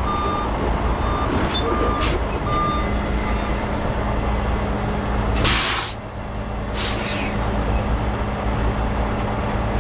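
Heavy truck diesel engine running steadily while a back-up alarm beeps a few times in the first few seconds. About five seconds in there is a loud burst of air hiss, like an air brake or air valve releasing, followed a second later by a shorter hiss.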